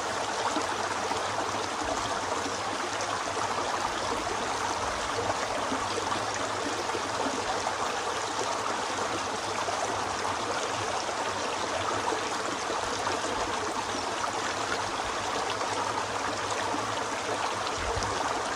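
Mountain river rushing and gurgling over rocks in a steady, unbroken flow.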